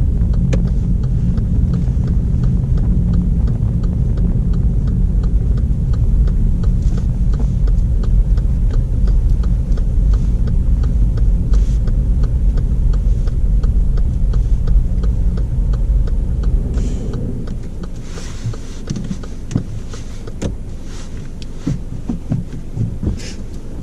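Petrol car driving, heard from inside the cabin: steady engine and road rumble with the turn indicator ticking evenly as the car pulls over to the left. About two-thirds of the way through, the rumble drops as the car comes to a stop, leaving a quieter engine hum and a few clicks.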